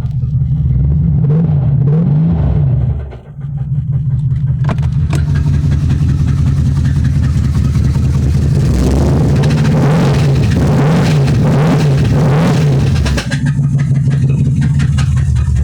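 Mercedes-Benz S550 W221 4Matic engine running, its pitch rising and falling briefly a few times, once about a second in and again several times near the end. The car has an unidentified noise that the owner is asking about.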